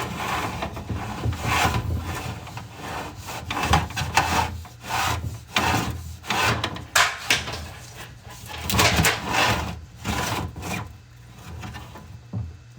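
An inspection camera head on its push rod scraping and rubbing along the inside of a rigid metal dryer vent pipe as it is fed through bends and built-up lint. It makes irregular rasping strokes over a steady low hum.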